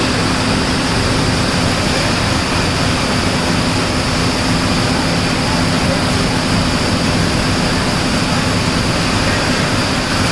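Rice mill conveyor machinery running: a loud, even mechanical noise with a constant low hum.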